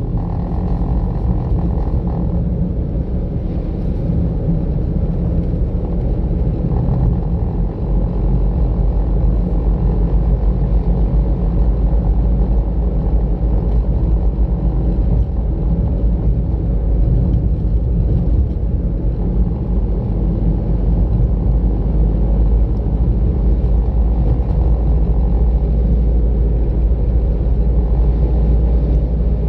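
Car driving on a road: steady low rumble of engine and tyre noise, getting somewhat louder over the first several seconds.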